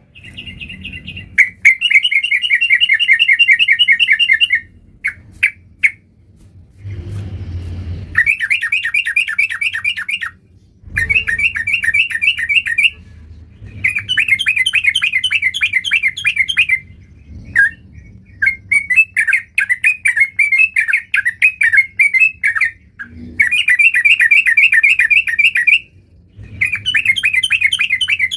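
Yellow-vented bulbul (trucukan) singing: phrase after phrase of rapid chattering notes, each lasting a couple of seconds with short pauses between.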